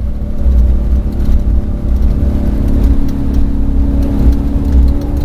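Ford Raptor off-road race truck driving fast over rough ground, heard from inside: a steady engine drone over heavy, uneven low rumble and buffeting, with scattered rattling clicks.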